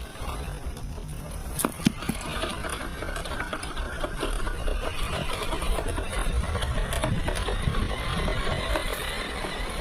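Small electric motor and gears of a 1/18-scale LDR/C LD18401 RC crawler whirring steadily as it drives, with a faint whine. Two sharp knocks come a little under two seconds in.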